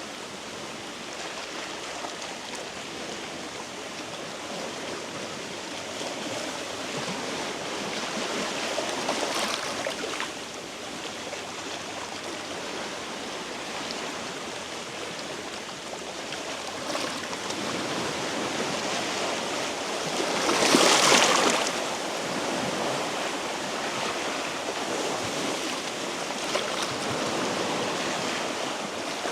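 Small sea waves washing against shore rocks, a steady wash that swells now and then, with one louder surge of water about two-thirds of the way through.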